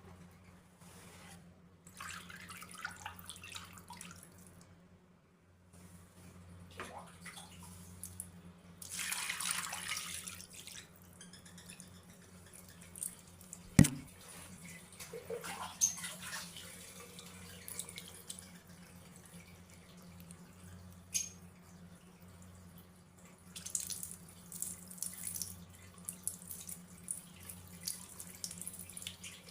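Water dripping and splashing in irregular bursts, with one sharp loud tick about 14 seconds in, over a faint steady low hum.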